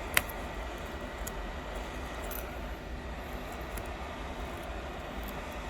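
Steady fan noise with a low hum, with one sharp click just after the start and a few faint small ticks.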